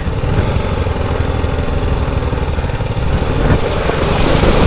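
Single-cylinder adventure motorcycle engine running steadily on a rough dirt track.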